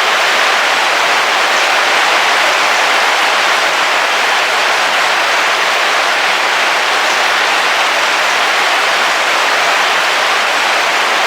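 Heavy rain falling steadily on a camping car's roof, heard from inside the vehicle, as an even hiss with no thunder.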